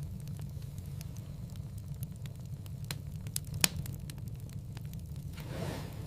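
Wood fire crackling in a fireplace, with a low steady rumble and scattered sharp pops, the loudest about three and a half seconds in. A soft whoosh of flame swells near the end.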